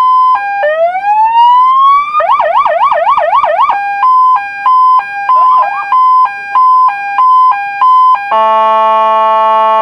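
Electronic police siren cycling through its tones. It starts with a two-note hi-lo, then a rising wail and a fast yelp of about four sweeps a second, then a long stretch of alternating two-note hi-lo. A little past eight seconds it switches to a steady blaring horn tone, and a new wail begins rising just at the end.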